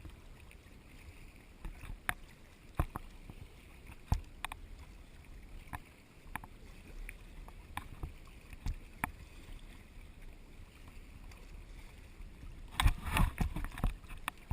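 Kayak paddling: scattered sharp splashes and knocks of the paddle over a low hiss of water, then a louder flurry of splashing and knocking near the end.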